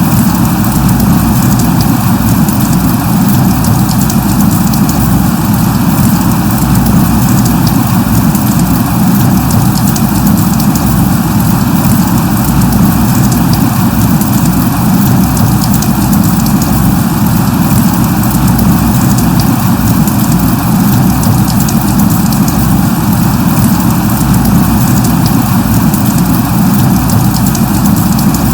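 Steady rain falling, a dense even hiss with a low rumble beneath it and fine ticks of drops.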